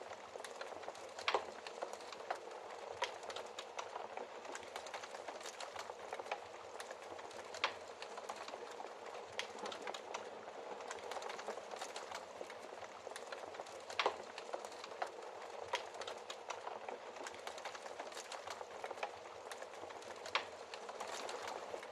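Wood fire crackling in a fireplace: a steady bed of fine crackles with a sharp, louder pop every few seconds.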